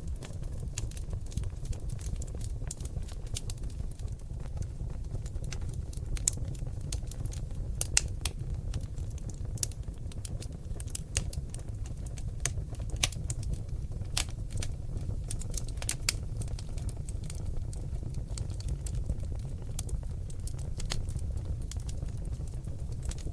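Seasoned oak logs burning in a fireplace, crackling with irregular sharp pops and snaps over a steady low rumble of the flames. A few louder pops stand out.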